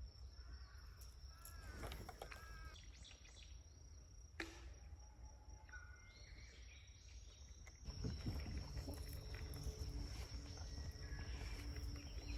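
Faint outdoor ambience: a few short chirping calls in the first three seconds over a steady high, thin buzz, with a low hum joining about eight seconds in.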